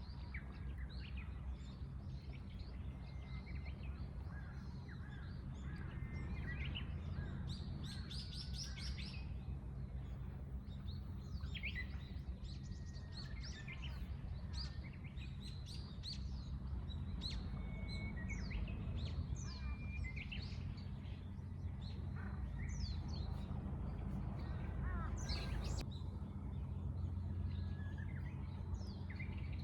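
Wild birds chirping and calling, several short calls and whistles overlapping, over a steady low rumble.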